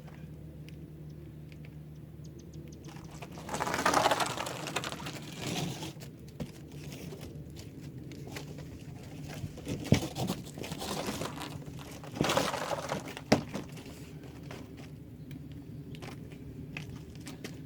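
Intermittent rustling and crinkling with a few sharp clicks, over a steady low hum.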